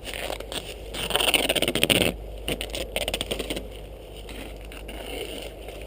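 Rustling and scraping of leafy brush and twigs as a heavy branch is handled: a dense crackling rustle about a second in, then scattered snaps and scrapes that fade to a quieter rustle.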